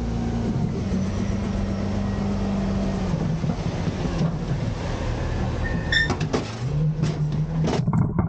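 Autocar garbage truck's diesel engine running steadily, with a brief high squeal about six seconds in. Its pitch rises near the end amid a string of metallic knocks and clatters.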